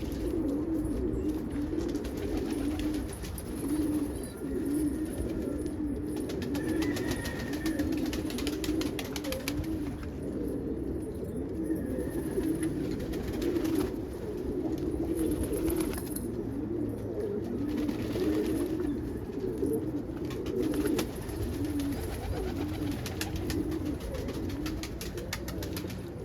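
Many loft pigeons cooing together, their calls overlapping into a continuous warbling murmur.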